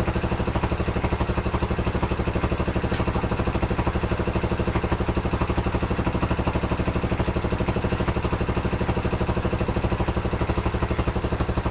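Pit bike's single-cylinder engine idling with rapid, steady firing pulses; the owner says it is stuttering and can't find why, as it is not out of gas.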